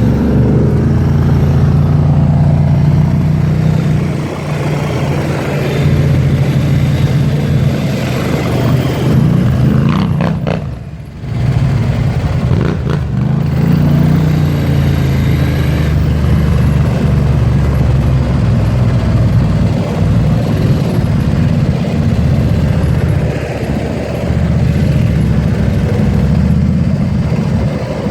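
ATV (quad) engine running steadily while riding, with a rushing noise over it. The engine note drops away briefly about ten seconds in, as on a throttle lift, then picks back up.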